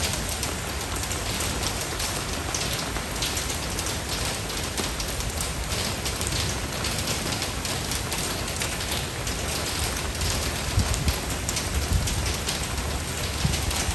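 Steady rain falling, with dense patter of drops on a surface and a few soft low thumps about eleven to thirteen seconds in.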